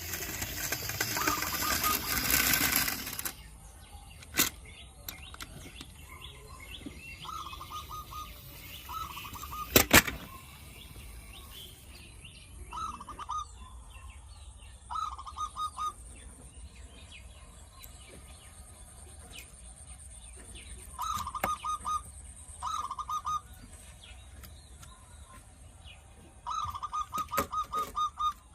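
Bird chirping in short bursts of rapid, same-pitched chirps, repeated every few seconds. A loud rustling noise comes in the first three seconds, and a few sharp clicks or knocks occur, the loudest about ten seconds in.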